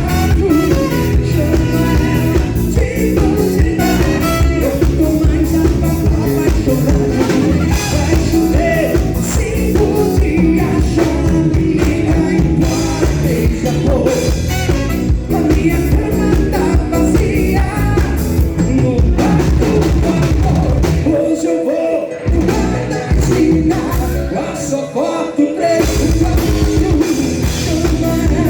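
A band playing rock music, with drums, guitar and singing. The bass and drums drop out briefly twice about three quarters of the way through.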